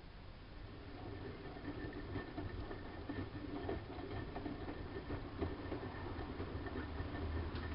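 Siemens Siwamat washing machine running, its drum motor starting up about half a second in and then turning steadily. A low hum and a faint steady whine run under scattered clicks and knocks from the turning drum.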